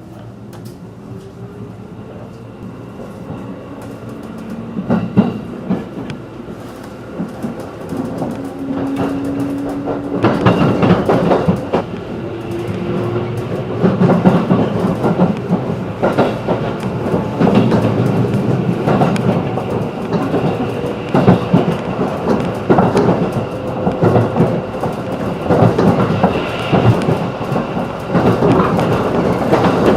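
JR 211 series electric train heard from inside the car, pulling away and gathering speed. A hum rises in pitch and grows louder, and the wheels click over rail joints more and more often.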